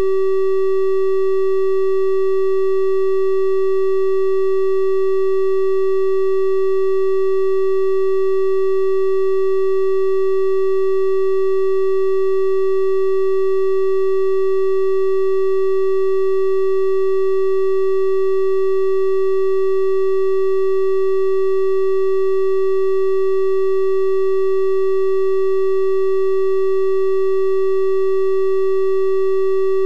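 Synthesized 384 Hz triangle-wave tone held at one steady pitch and level, with faint higher overtones giving it a slightly brighter edge than a pure sine.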